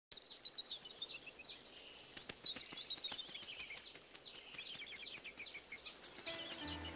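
Birds chirping: a busy chorus of short, high, falling chirps repeated over and over. Music with held notes comes in near the end.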